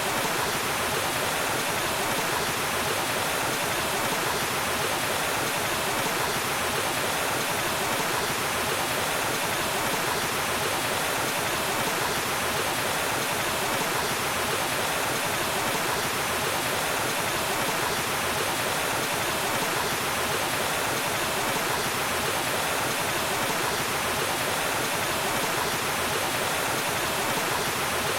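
Waterfall, a steady rushing of falling water with no change in level.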